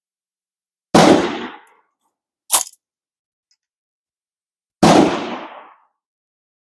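Two gunshots about four seconds apart, each loud and sudden with a trailing echo, and a short sharp metallic click between them.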